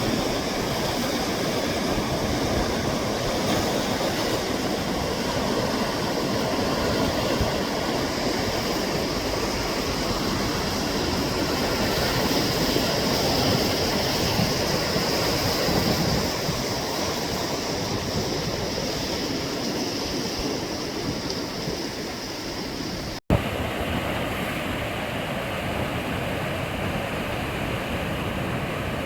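Sea waves washing on the shore: a steady rush of surf. A little over 23 seconds in the sound drops out for an instant with a click, where the recording is cut.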